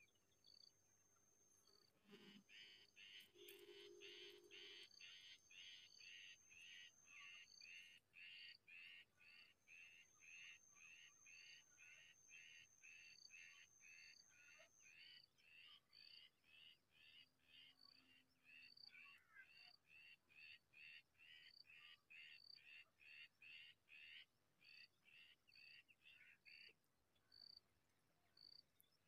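Small birds calling: a long run of short repeated chirps, about two a second, starting about two seconds in and stopping near the end, over a thin high peeping note that carries on after the chirps stop.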